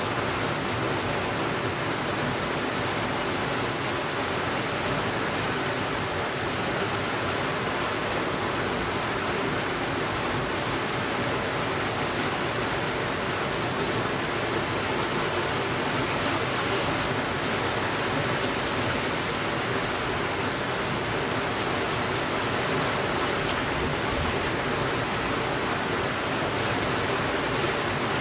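Steady rainfall, a constant even hiss with no breaks or changes in level.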